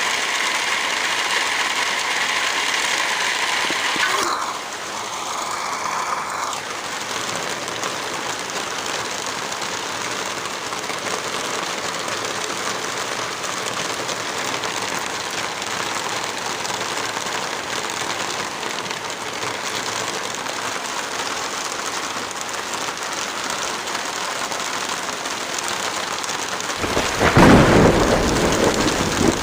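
Heavy rain falling steadily as a dense even hiss. Near the end a brief, loud low rumble swells up over the rain for about two seconds.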